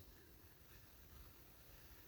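Near silence: faint room tone between narrated entries.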